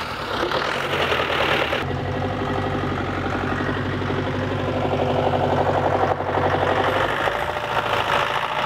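John Deere tractor engine running steadily just after starting, at idle. Its sound changes about two seconds in, losing its hiss and settling into an even low hum.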